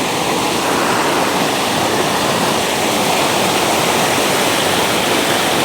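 Water rushing steadily over a small waterfall: a dense, even wash of sound with no breaks.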